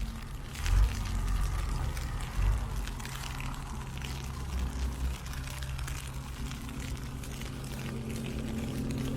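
Ice pellets ticking in a rapid, irregular patter on an umbrella. Under it runs a steady low vehicle engine hum that gets louder in the second half.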